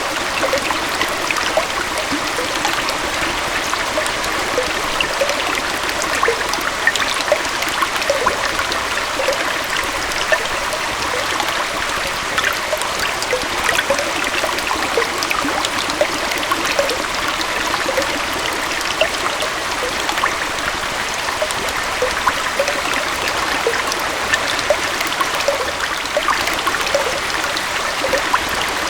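Small waterfall and stream flowing steadily, a continuous rushing and splashing of water with many small bright droplet-like splashes.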